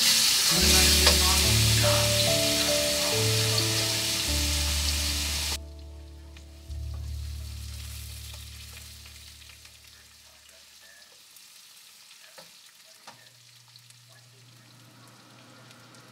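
Food sizzling hard in a hot wok while being stirred with a wooden spatula; the sizzle cuts off suddenly about five and a half seconds in. Soft background music with low notes runs underneath and fades out, leaving a few faint knocks.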